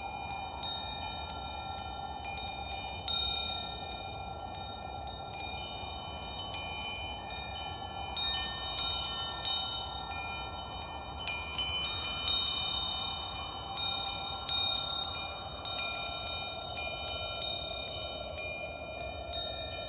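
Wind chimes ringing, struck at irregular moments, their bright overlapping tones ringing on, over a soft steady whooshing noise. Two stronger strikes come about halfway through.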